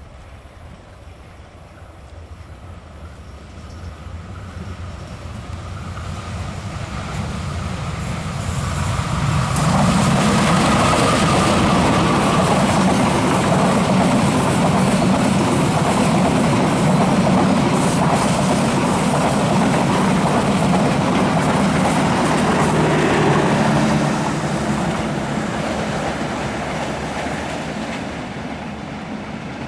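A long train approaches, passes close by with its wheels clattering over the rails for about fifteen seconds, then begins to fade away.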